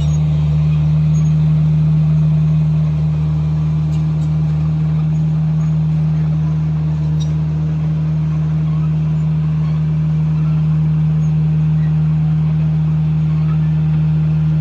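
Komatsu bulldozer's diesel engine running at a steady speed, its drone holding one pitch throughout.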